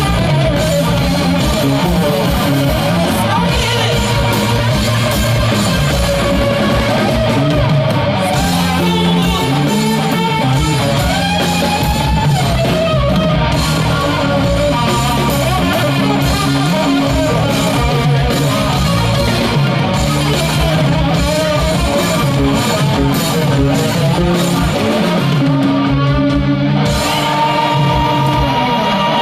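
Live rock band playing, with an electric guitar carrying a wavering, bending melodic lead line over the band's steady low end.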